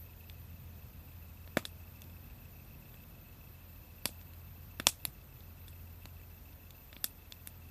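Wood fire crackling: sharp, separate pops every second or two, some coming in quick pairs, over a low steady background.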